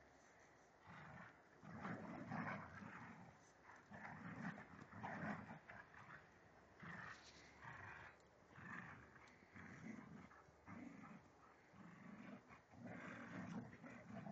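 Two dogs fighting, growling and snarling in a string of rough, repeated bursts.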